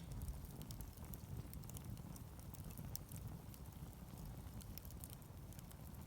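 Wood fire crackling, with many small sharp pops and snaps scattered irregularly over a steady low rumble.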